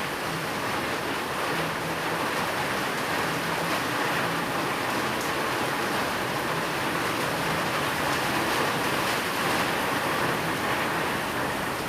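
Steady rain falling, a dense even hiss with fine patters, and a faint low hum coming and going beneath it.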